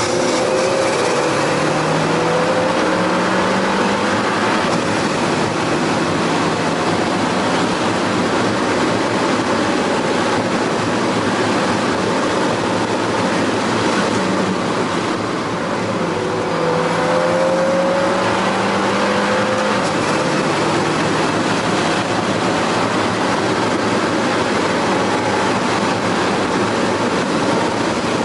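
Alfa Romeo 4C's turbocharged four-cylinder engine pulling hard under full throttle at high speed, heard from inside the cabin over loud road and wind noise. The engine pitch climbs steadily, drops sharply at a gear change about twenty seconds in, then climbs again.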